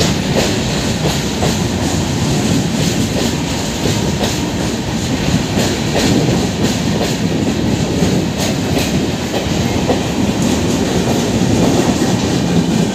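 Empty BFNS steel flat wagons of a goods train rolling past, a steady rumble of wheels on rail with irregular clicks and clanks as the wheels cross rail joints.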